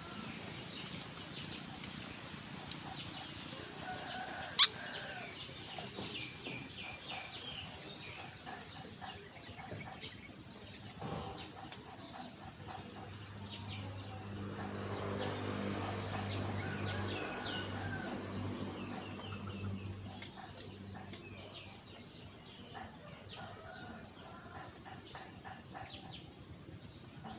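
Birds chirping, with short high chirps repeated all through. A sharp click comes about four and a half seconds in, and a low steady hum swells up for several seconds in the middle.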